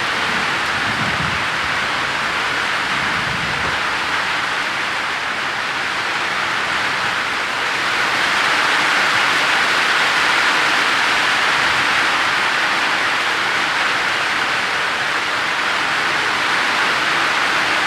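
Heavy rain pouring down in a steady hiss, swelling slightly about eight seconds in.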